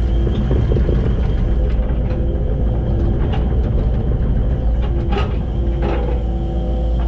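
Excavator's diesel engine running steadily with a constant hydraulic whine, and a few sharp knocks about three, five and six seconds in.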